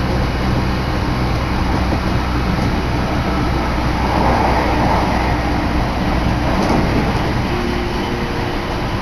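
Electric train running at speed, heard from inside the carriage: a steady rumble of wheels on rail under a constant low hum.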